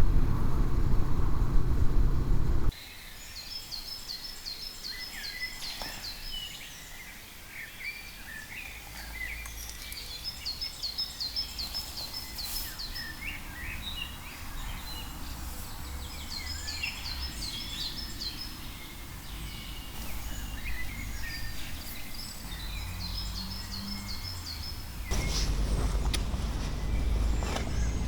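Motorcycle riding noise, a loud low rumble, cuts off abruptly a few seconds in. It gives way to outdoor ambience in which a songbird repeats a short high trill about every six seconds, among scattered chirps. A low rumble swells again near the end.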